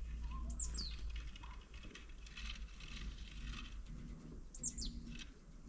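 Small songbird giving high, thin down-slurred call notes, a quick pair about half a second in and another pair near the end, over faint light tapping and a low steady rumble.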